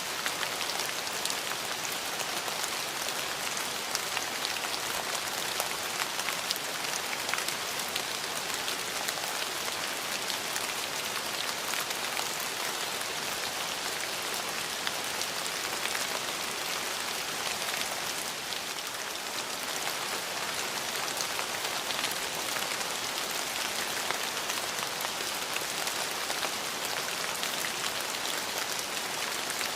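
Steady rain falling, a dense even hiss with the patter of individual drops striking hard surfaces.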